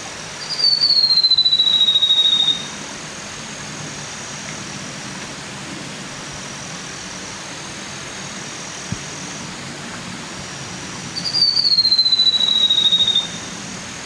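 A forest bird giving a long, high whistle that slides gently down in pitch over about two seconds, twice, about ten seconds apart, over a steady background hiss of forest ambience.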